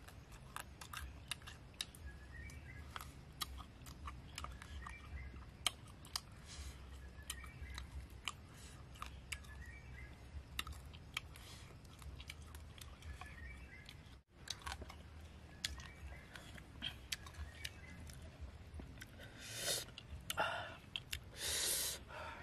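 A person chewing and crunching grilled frog close to the microphone: a run of small wet clicks and crunches, with a few louder rushes of noise near the end.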